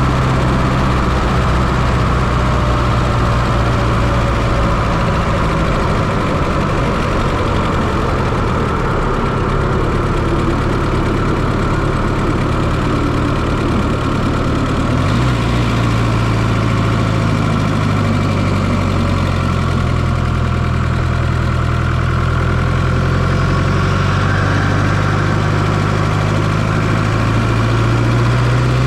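1995 Fiat Coupe 2.0 16V turbo's four-cylinder engine running steadily, heard from inside the engine bay. Its pitch shifts about halfway through and rises slowly near the end.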